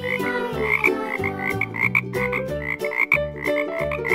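Cartoon-style background music, a bouncy melody over a bass line, with frog-croak sounds repeating about four times a second in time with the beat.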